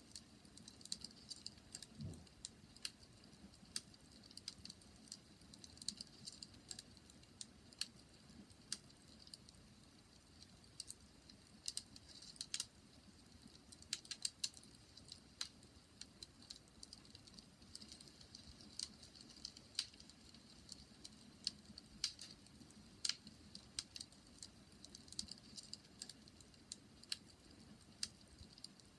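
Bonfire crackling: irregular sharp pops and snaps, several a second, over a soft low rumble of the burning fire.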